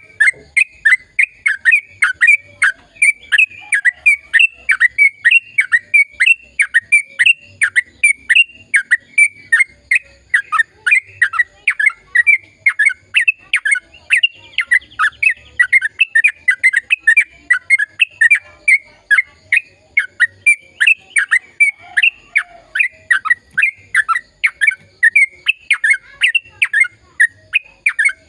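Trucukan (yellow-vented bulbul) singing a long, fast, unbroken run of short chattering notes that drop in pitch, about four or five a second.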